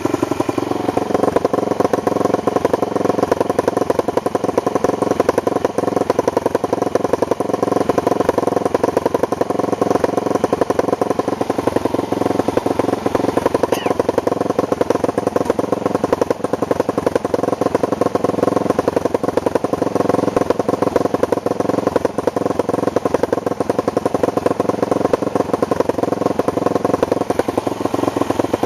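ATV engine running steadily at a fairly even pitch, with no large revs.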